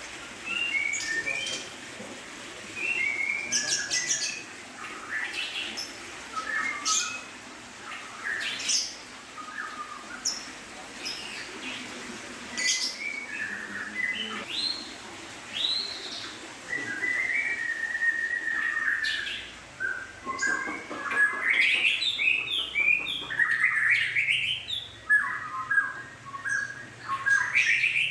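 Birds chirping: a steady run of short high chirps and quick rising and falling whistled notes, busiest in the last several seconds.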